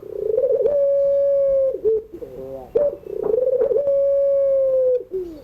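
Puter pelung, a domestic ringneck dove bred for its long call, cooing twice. Each call opens with a trembling, wavering part and then stretches into a long held note. The second call starts a little over halfway through.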